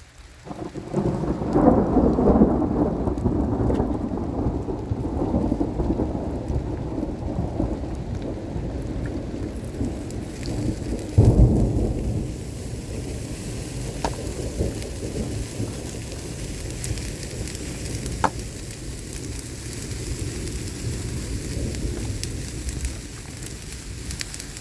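Thunderstorm: a long rolling rumble of thunder starting about a second in and fading slowly, a second loud thunderclap about halfway through, and steady heavy rain hissing throughout.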